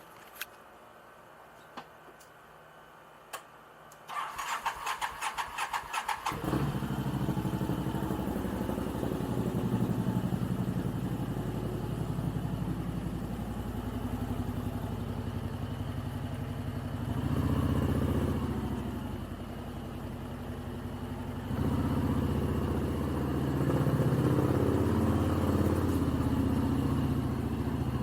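A motorcycle engine is turned over by its electric starter for about two seconds after a few faint clicks, catches, and keeps running, its sound rising twice in the second half.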